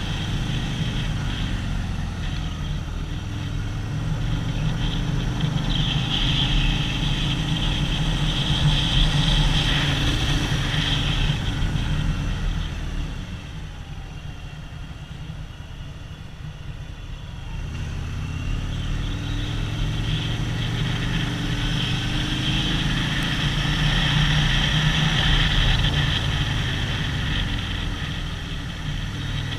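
Harley-Davidson V-twin motorcycle engine running under way, with road and wind noise. The engine eases off about halfway through and then picks up again.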